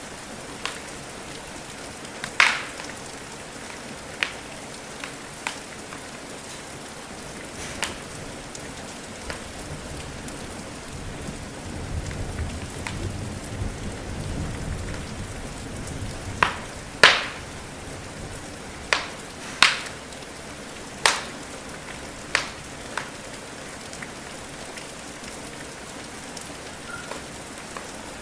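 Steady rain hiss with a fireplace crackling over it: a dozen or so sharp wood pops, scattered irregularly, the loudest about two and a half seconds in and again past the middle. A soft low rumble swells and fades in the middle.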